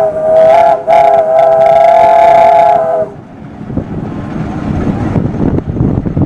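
Steam traction engine's whistle blowing a held chord of several notes, dipping briefly just before a second in and cutting off about three seconds in. A lower, rough rumbling noise follows.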